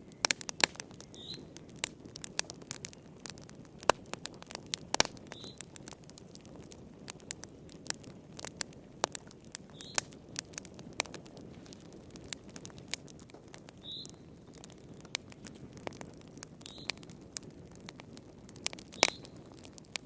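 Wood fire crackling in a fireplace: irregular sharp pops and snaps, some much louder than others, over a low steady rush of flame. A faint short high chirp recurs every four seconds or so.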